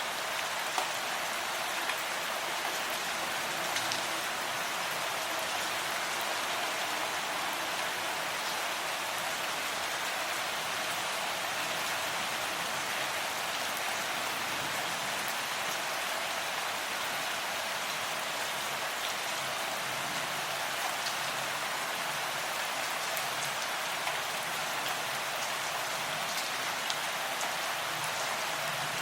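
Steady rain falling: an even hiss with faint, scattered ticks of single drops.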